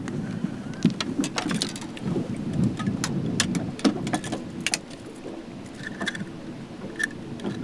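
Water splashing and sloshing aboard a bass boat, with many sharp clicks and knocks scattered throughout.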